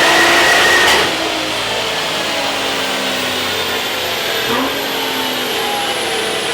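Nissan R35 GT-R's twin-turbo V6, tuned and breathing through an aftermarket Y-pipe and cat-back exhaust, revving hard with its pitch climbing, then dropping back suddenly about a second in. It then runs on more quietly with its pitch slowly rising again, with a brief dip and recovery like a quick gear shift partway through.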